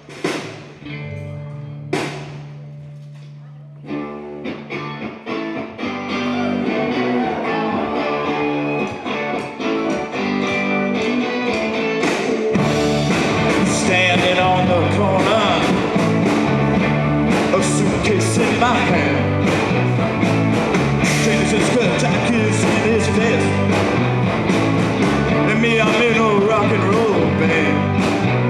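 Live rock band playing an instrumental intro on electric guitars: after a couple of sharp hits, the instruments come in and build, and a fuller band sound with bass and drums takes over about twelve seconds in.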